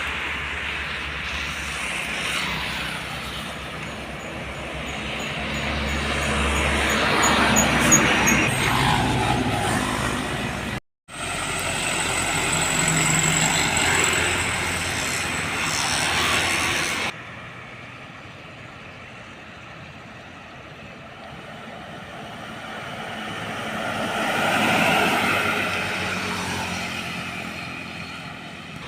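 Heavy trucks driving past on a road, their engine and tyre noise swelling as each one goes by. The sound cuts out briefly about eleven seconds in and drops abruptly a few seconds later.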